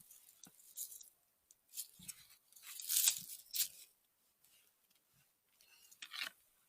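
Rustling and crunching of forest litter and plant stems in a few irregular short bursts, the loudest about three seconds in, with a near-silent gap before one last rustle near the end.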